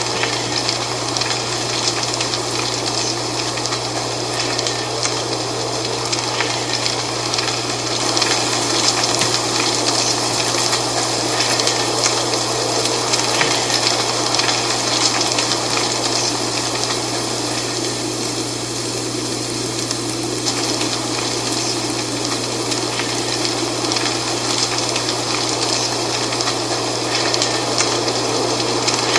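Dry fall leaves rustling in the wind: a continuous hiss full of fine crackles, swelling a little now and then.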